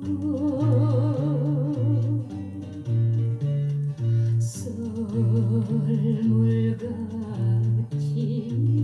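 Music playing back on a TEAC X-300 reel-to-reel tape deck under test after repair: the instrumental intro of a Korean song, with a steady, evenly pulsing bass line under a melody with strong vibrato.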